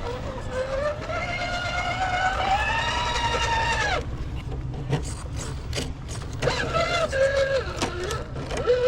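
Electric motor and gear whine of a 1/10-scale RC rock crawler under throttle. It rises slowly in pitch for about three seconds and cuts off suddenly, then comes back in shorter steps near the end, with a few clicks in between.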